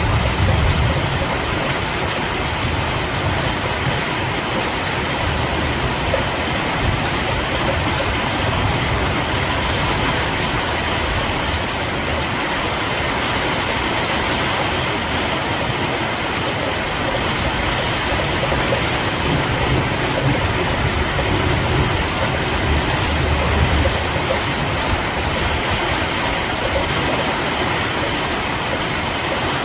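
Steady, heavy rain hissing down, with low rumbles swelling near the start and again about twenty seconds in.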